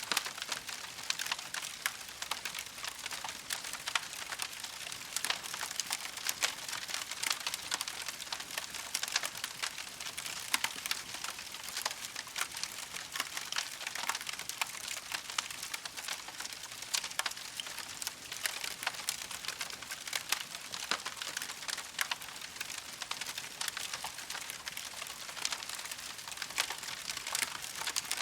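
Wood campfire burning, a dense, steady crackle of small pops and snaps over a soft hiss.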